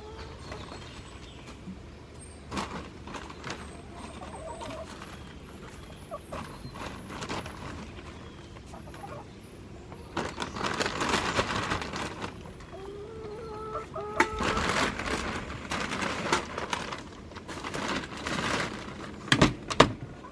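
Hens clucking, with short calls, and loud bursts of rustling about halfway through and again near the end.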